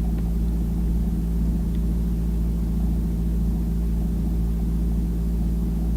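Steady low hum with several even tones, unchanging throughout.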